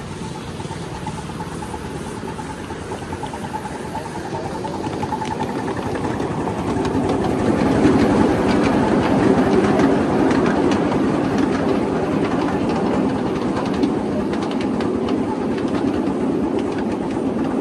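A 7½-inch-gauge riding train running through a tunnel: steady rumble of wheels on rail with scattered clicks from the track, growing louder about six seconds in.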